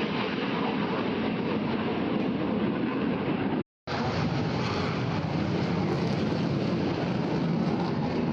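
Aircraft engine noise at an airshow: a steady, loud rushing sound with no distinct tones, broken by a brief silent gap about three and a half seconds in.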